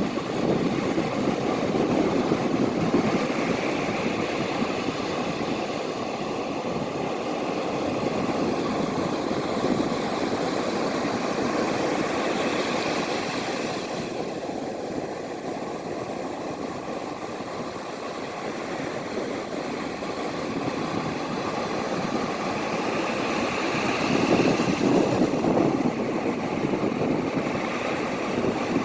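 Ocean waves washing in a steady rush that swells and eases slowly, loudest near the end.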